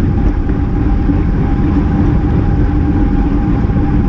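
Steady wind rush and road rumble on a bicycle-mounted GoPro's microphone while riding at race speed, with a faint steady hum running underneath.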